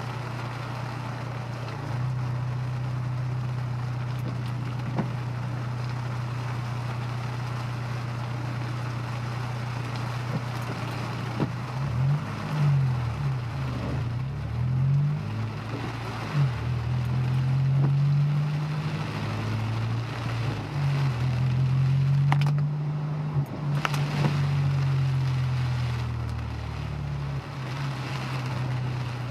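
Honda S2000's four-cylinder engine heard from inside the car. It runs at a steady pitch at first, then from about twelve seconds in rises and falls in pitch several times as the car accelerates and changes gear. Under it is a steady hiss of road noise.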